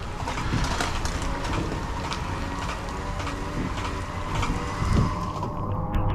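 Motor vehicle engine running steadily, with a few knocks and rattles.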